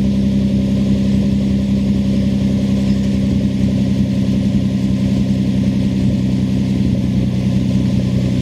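Nissan Altima Coupe's 3.5 L V6 idling steadily after a cold start, heard through a Top Speed Pro 1 aftermarket dual exhaust. The exhaust note holds an even low drone with no revs.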